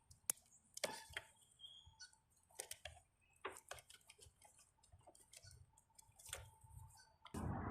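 Faint, scattered clicks and light taps of a rubber vacuum hose being worked loose and pulled off its fitting in a car's engine bay. A steady rush of noise comes in near the end.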